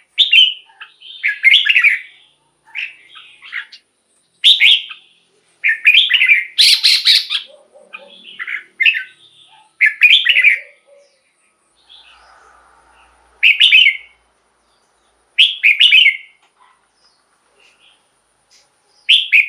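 Red-whiskered bulbul singing: short, loud whistled phrases about a second long, repeated with pauses of one to two seconds between them.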